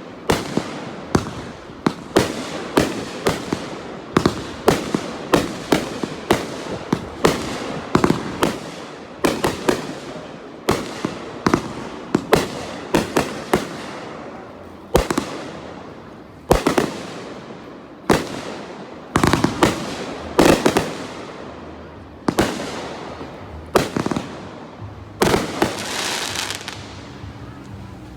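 Fireworks display: aerial shells bursting in rapid succession, several bangs a second at first and then more spaced out, some followed by a long crackling tail near the end.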